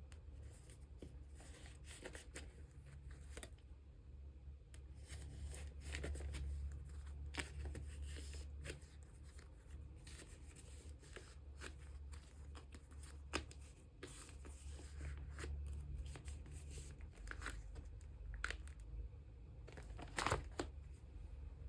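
Plastic card sleeves and photocards handled close up: crinkling and rustling plastic with scattered small clicks and taps, a little louder near the end, over a low steady hum.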